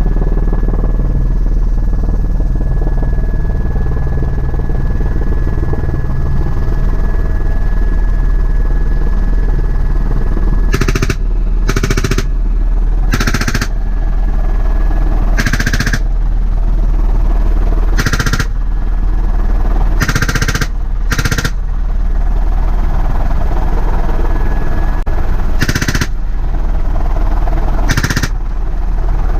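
Helicopter cabin noise: a steady, loud drone of rotor and engine. From about eleven seconds in, a door-mounted machine gun fires about nine short bursts of rapid shots.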